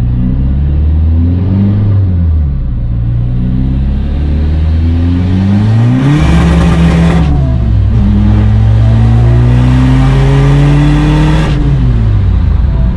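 Modified VW Polo TDI turbodiesel accelerating hard through the gears: the engine pitch climbs steadily, then drops at each upshift, three times, with a loud rushing hiss near the top of the second and third pulls.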